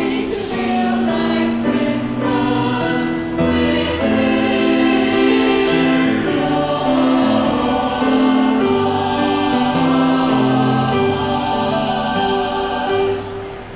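Choir singing in harmony with sustained chords; the piece ends on a held chord near the end.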